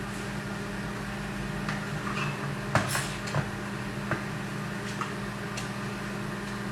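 A few light clicks and knocks of kitchen utensils and plastic containers being handled, with a sharp plastic clack about three seconds in, over a steady background hum.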